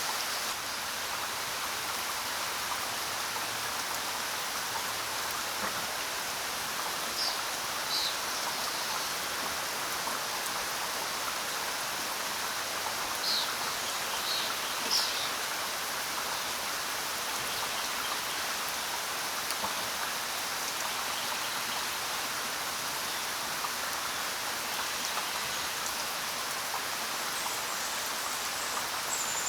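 Steady rain falling, with a few short, high bird chirps about seven seconds in and again around thirteen to fifteen seconds in.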